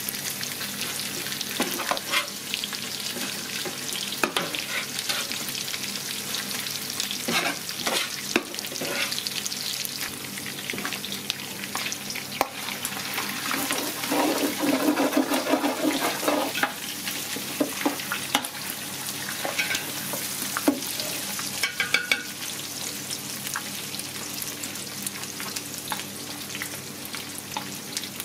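Duck fat sizzling in a large aluminium stockpot as minced duck meat and garlic fry and brown lightly, with a metal spoon scraping and knocking against the pot while the mixture is stirred. A brief louder pitched sound comes about halfway through.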